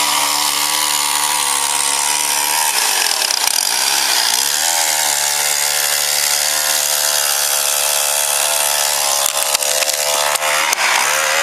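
Chainsaw running at high revs, cutting wood. Its pitch drops and comes back up about three seconds in and again at about four and a half seconds. A few sharp knocks near the end.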